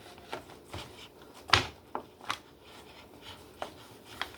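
Scattered light knocks and taps of kitchen handling as salad ingredients are laid into pans, about half a dozen separate hits, the sharpest one about a second and a half in.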